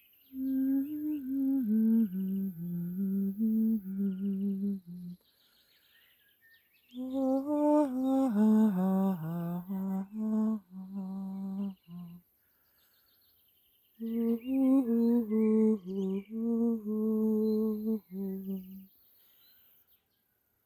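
A person humming a slow, wordless melody in three phrases of stepping notes, with pauses between them. Faint birdsong chirps in the pauses.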